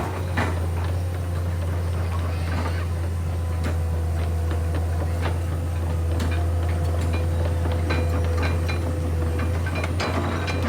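Komatsu PC210 excavator's diesel engine running steadily, with scattered metallic clanks and knocks over it.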